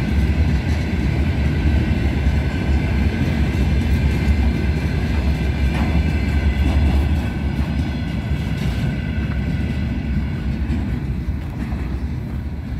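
Loaded iron ore pellet freight wagons rolling past with a heavy low rumble and a steady high-pitched ringing from the wheels. About seven seconds in, the sound drops as the last wagons go by, and it fades as the train moves away.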